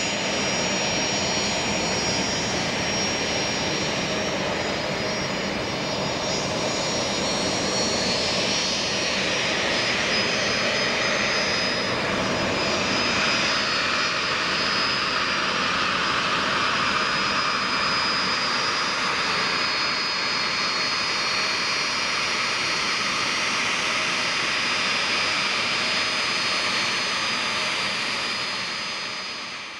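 Boeing 757 freighter's jet engines whining steadily at low taxi power, a constant high whine over a broad rush of engine noise. The sound fades out at the very end.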